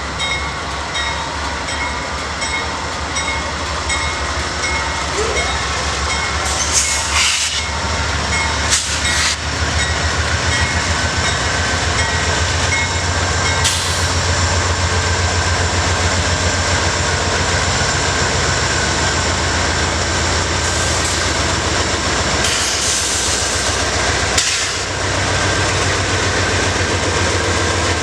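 Train passing close by: a steady low rumble of wheels on rail with a fast, even rhythm, steady high whining tones above it, and sharp clanks several times.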